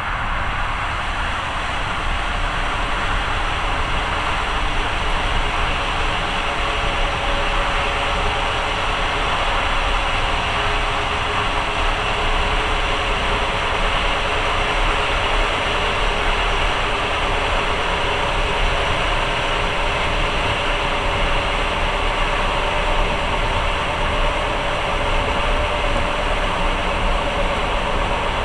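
Steady running noise of a moving passenger train, heard from inside the carriage, with a faint steady whine over the rumble.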